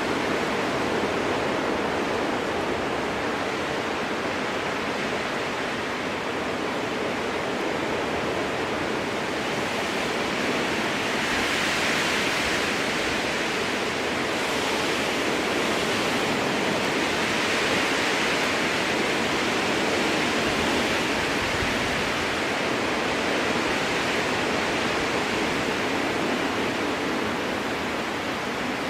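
Strong wind blowing through spruce trees: a steady rushing hiss of needles and branches that swells and eases in slow gusts.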